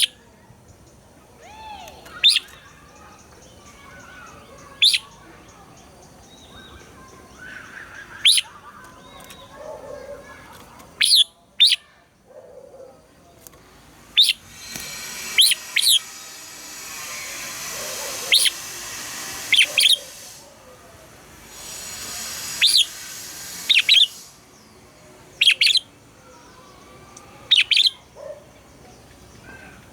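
Red-whiskered bulbul calling: loud, short, sharp high notes every second or two, often in quick pairs. A steady hiss of noise rises under the calls for a few seconds in the middle, twice.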